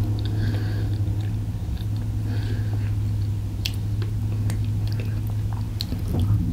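A person chewing and eating, with scattered small clicks, over a steady low hum.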